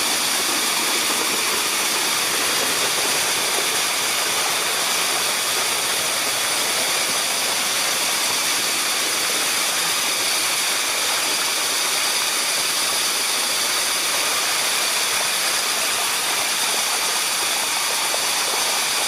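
Water of the Sticky Waterfalls (Bua Tong) rushing steadily over the rock in an even hiss.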